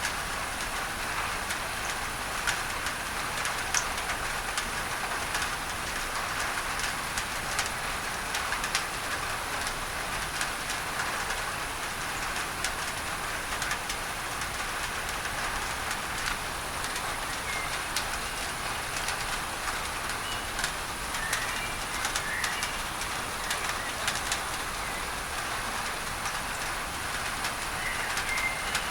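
Steady rain drumming on a tin roof, with sharp drop ticks throughout, under a constant masking hiss. A few faint bird chirps come in during the second half.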